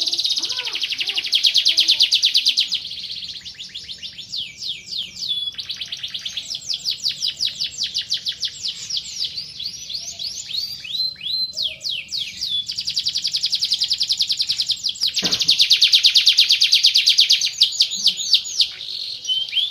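Domestic canary singing a long contest song: very fast rolling trills of rapidly repeated high notes, running into phrases of slower, falling, swooping notes. The fastest and loudest trills come at the start and again about two-thirds of the way in.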